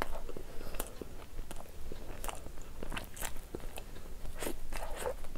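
A person chewing a mouthful of food close to the microphone, with irregular crisp crunches and clicks of the mouth, typical of fried street snacks being eaten.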